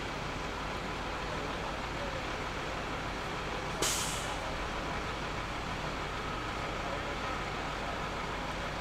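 Steady jet engine noise from a fighter jet flying its airshow display, with one sharp crack about four seconds in.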